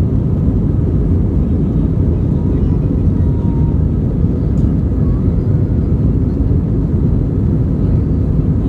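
Airbus A320 cabin noise heard from a passenger seat: steady, low-pitched jet engine and airflow noise with no change in level, typical of the aircraft climbing out after takeoff.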